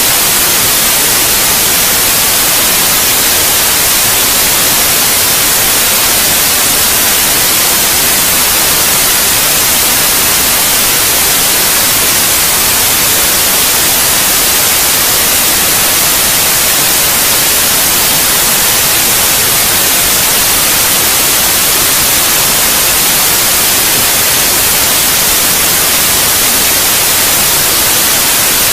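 Steady white noise: a loud, even hiss with no changes, strongest in the high frequencies.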